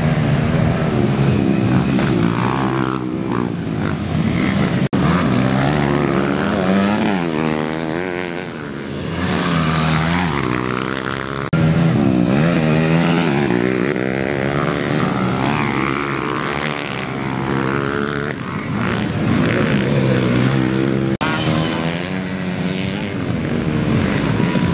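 Several motocross motorcycles racing on a grass track, their engines revving up and down as the riders accelerate, shift and brake. The engine notes overlap.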